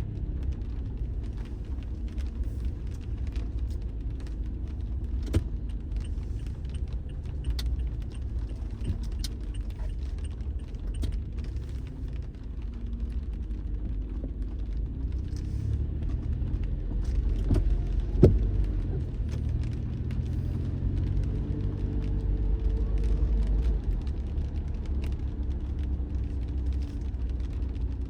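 Car driving on the road: a steady low rumble of road and engine noise, with scattered sharp clicks and rattles. The loudest click comes about eighteen seconds in.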